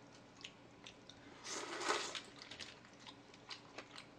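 Close-miked eating: a person chewing food, with small wet mouth clicks and one louder noisy burst about a second and a half in.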